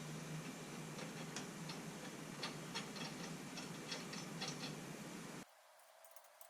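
Scattered light clicks and ticks of hand tools at work over a steady background hiss, cutting off abruptly about five seconds in.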